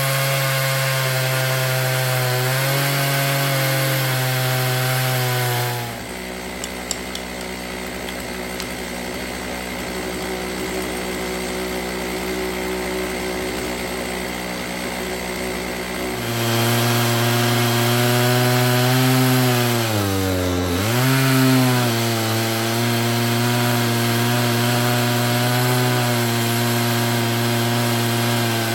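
Two-stroke chainsaw running at high revs in an Alaskan chainsaw mill, ripping a log lengthwise into boards. For about ten seconds in the middle the sound drops to a quieter, lower-toned run, and a few seconds after the full sound returns the revs dip briefly under load and pick back up.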